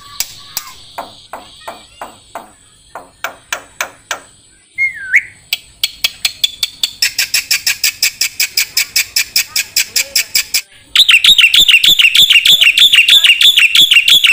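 Black-winged myna (jalak putih) calling: a run of sharp chips about three a second and a single whistled down-slur, then a fast chatter, and from about eleven seconds a much louder, rapid, repeated warbling song.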